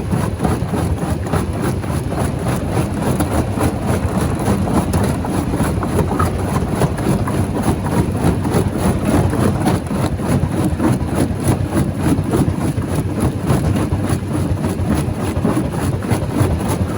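Rock crusher machine running under load: a steady heavy rumble with constant crunching and cracking of stone being broken.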